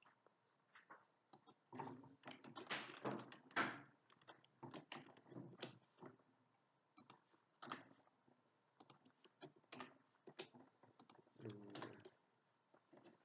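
Faint, irregular typing on a computer keyboard: bursts of keystrokes, with a quicker run of keys a couple of seconds in.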